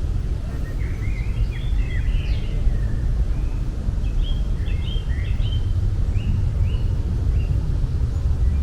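Outdoor ambience: a steady low rumble with small birds chirping, a busy run of quick chirps in the first half, then a few single notes near the end.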